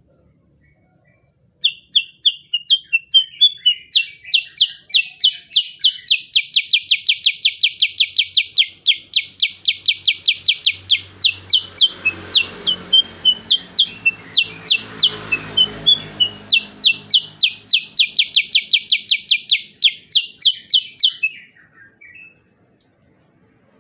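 Cucak kurincang bulbul singing a long rapid run of sharp repeated notes, about four a second, the rolling 'ngerol' style. It starts about two seconds in and stops a couple of seconds before the end, with a soft hiss rising under it in the middle.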